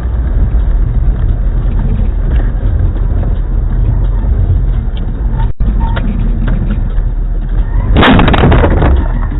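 Car driving, with a loud steady low rumble of road and engine noise, then near the end a sudden loud, harsh crash lasting about a second, as of a collision.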